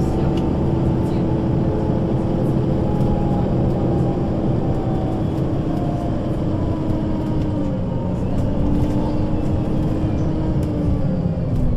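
Solaris Urbino 12 III city bus's diesel engine and Voith automatic gearbox running under way, a steady drone with a whining tone that steps down a little about two-thirds of the way through.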